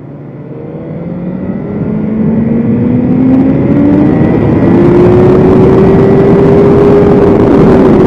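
BMW S1000RR inline-four sport bike engine accelerating hard, its pitch climbing steadily for about five seconds and then holding high, with wind rush growing louder along with it.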